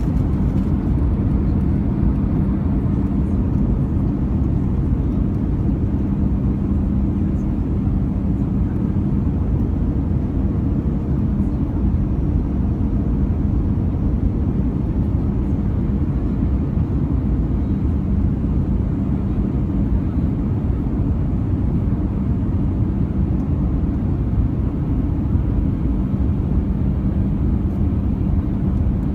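Steady cabin noise inside an Airbus A320-214 in flight: the drone of its CFM56 turbofans and the airflow, deep and even, with a constant low hum through it.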